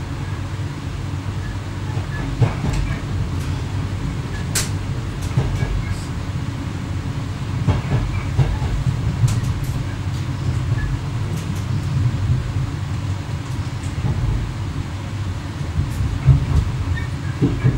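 Running noise in the driver's cab of an X11 electric multiple unit on the move: a steady low rumble with scattered sharp clicks and knocks.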